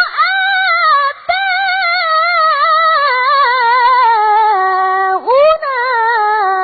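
A young qari chanting Quran recitation in a high, melodic tilawah style: long held notes with fast wavering ornaments, two short breaths about a second in and near five seconds in, and the phrase ending right at the close.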